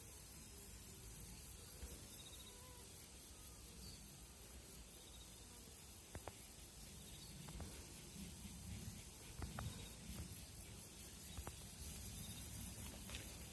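Faint chorus of autumn insects singing: a steady high-pitched shrill with short chirps repeating, and a few scattered clicks in the second half.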